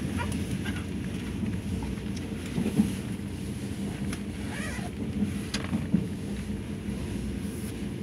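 Steady low rumble of an Al Boraq high-speed train running along the line, heard from inside the passenger car, with a few faint clicks.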